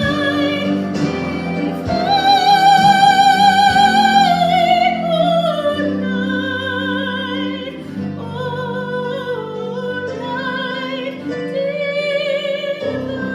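A solo singer in classical style, holding long notes with strong vibrato over an instrumental accompaniment. The loudest, highest note is held from about two seconds in and slides down a little after four seconds.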